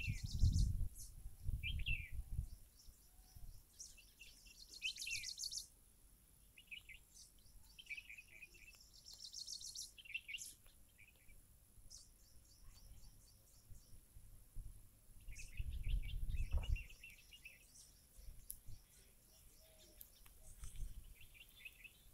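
Small birds chirping and giving quick trilled calls, over and over. A low rumble comes near the start and again about two-thirds of the way through.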